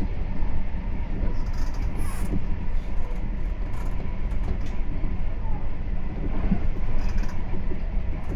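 Meitetsu 3500 series electric train running at speed, heard from inside the leading car: a steady low rumble of wheels on rail with a faint steady hum.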